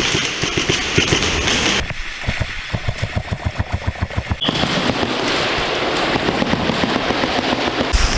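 Airsoft guns firing during a speedsoft match: a dense rattle of shots, then a run of sharp regular pops a few per second, with a brief high steady tone about four and a half seconds in.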